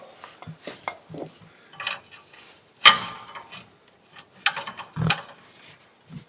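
Hand tools clinking and knocking against the car's old exhaust hardware while a seized exhaust bolt is worked. The bolt spins instead of coming loose, so it will have to be cut off. One sharp metallic clank about three seconds in, and a quick run of knocks near five seconds.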